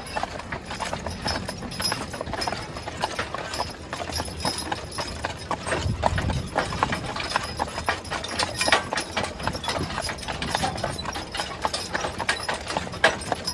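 A team of draft horses walking in harness, their hooves clip-clopping in a steady, uneven stream of sharp strikes.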